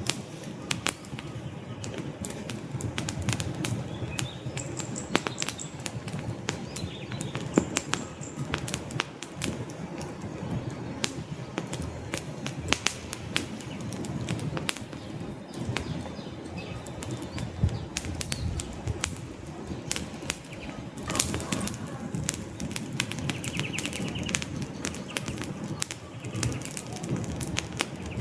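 Wood fire in a fireplace crackling: frequent irregular sharp pops and snaps over a steady low rustle of burning flames.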